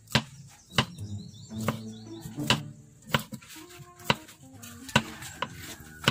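Kitchen knife slicing garlic cloves on a wooden chopping board: a sharp knock of the blade on the wood about once a second, seven or eight in all. Background music with steady notes plays underneath.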